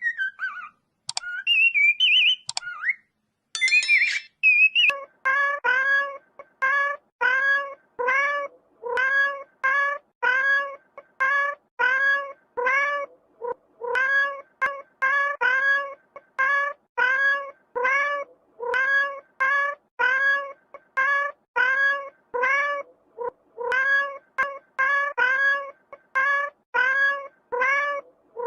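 Domestic cat meowing over and over in short, evenly spaced meows, nearly two a second, after a few seconds of high whistled chirps at the start.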